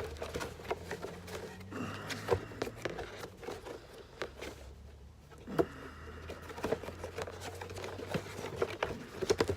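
Hands handling old cardboard packaging and paper: a string of light taps, scrapes and rustles, with a cluster of sharper knocks near the end.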